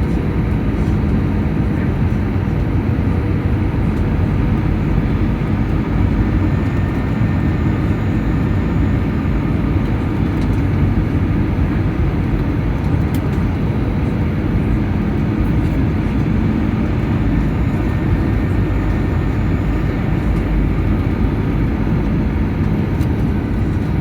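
Airliner on its landing approach: a steady, unbroken rush of engine and airflow noise with a low, even hum under it.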